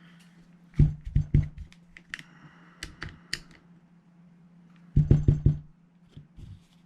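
Sharp knocks and clicks of a metal airsoft rifle lower receiver being handled and knocked on a work surface to shake loose the rear-pin detent spring and little retaining pin. A quick run of four knocks comes about a second in, then lighter clicks, then another run of four knocks about five seconds in, over a faint steady hum.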